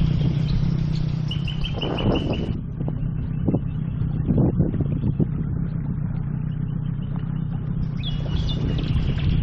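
Birds chirping: a quick run of short, high repeated notes about a second in, and more calls near the end, over a steady low motor drone.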